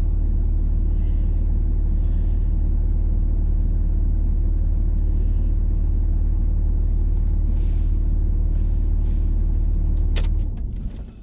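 Vehicle engine idling steadily with a deep, even hum, then switched off about ten seconds in, with a couple of sharp clicks near the end.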